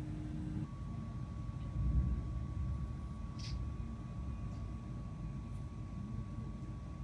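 Steady low rumble of a train running, heard from inside the carriage, with a faint steady whine that steps up in pitch about a second in. A brief high hiss comes about halfway through.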